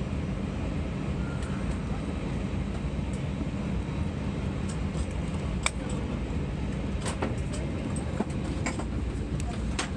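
Steady low cabin rumble inside an Airbus A320 on the ground after landing, with scattered sharp clicks and knocks from about halfway through.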